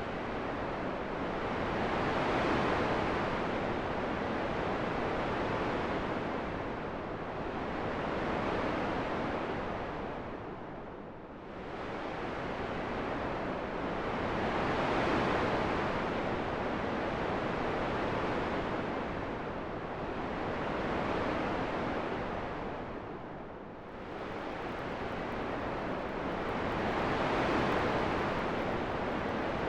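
Steady rushing wind, swelling and easing in slow gusts about every six seconds, with deeper lulls twice.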